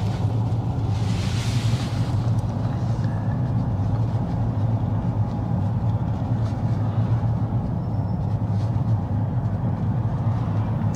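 Steady low drone of a car's engine and tyres heard from inside the cabin while driving, with a brief rushing hiss about a second in.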